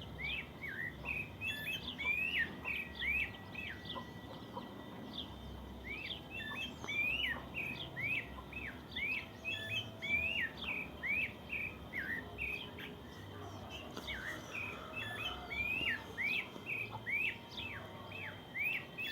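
Birds chirping and singing: quick runs of short, high chirps, several a second, easing off briefly a couple of times.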